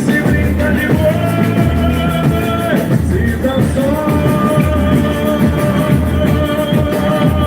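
Live boi-bumbá toada played loud by a band with drums: dense steady percussion under long held melody notes.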